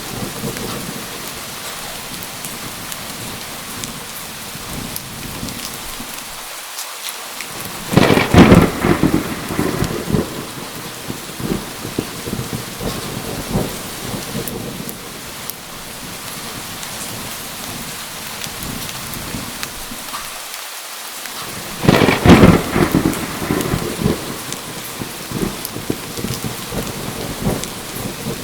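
Steady heavy rain falling, with two loud claps of thunder, one about a quarter of the way in and one about three quarters through. Each clap starts sharply and rumbles away over a couple of seconds.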